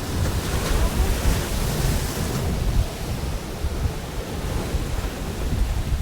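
Pacific Ocean surf washing onto a beach: a wave's hiss swells about half a second in and fades by about two and a half seconds, over a steady low rumble.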